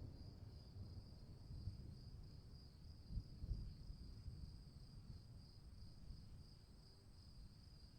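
Crickets chirping in a steady, fast-pulsing high trill, faint, over a low rumble that swells briefly about three seconds in.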